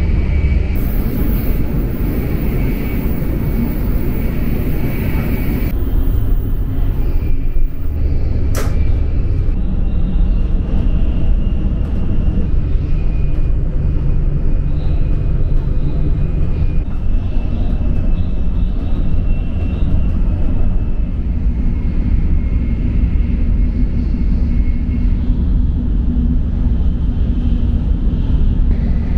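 Steady low rumble of a Shinkansen N700S bullet train running at high speed, heard from inside the car. Near the start a high hiss runs for about five seconds, and a single sharp click comes about eight seconds in.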